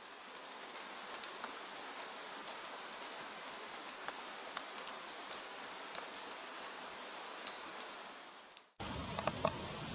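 Soft rain sound effect: a steady hiss with scattered drop ticks, fading out about nine seconds in. It is cut off abruptly by steady outdoor background noise with a few clicks.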